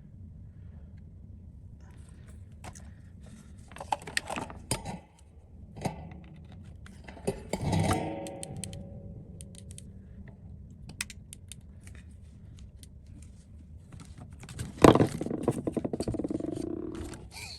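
Small tools and parts being handled and scraped at a repair bench: scattered clicks, clinks and scraping, with louder clusters of knocks about four, eight and fifteen seconds in, over a steady low hum.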